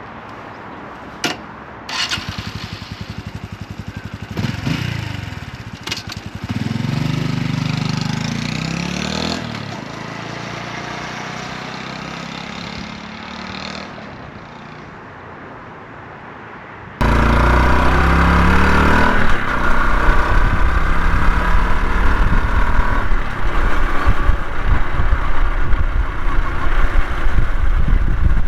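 Honda CT125 Hunter Cub's single-cylinder engine starting about two seconds in, revved a few times and then idling. Past halfway it gives way suddenly to loud riding noise: the engine running under strong wind buffeting the microphone.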